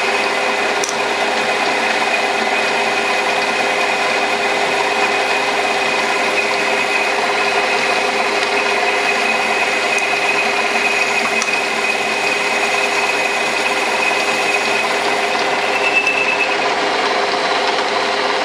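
Metal lathe running steadily with its power feed engaged, turning a taper with a new cutting tool: an even mechanical whir with a steady high whine.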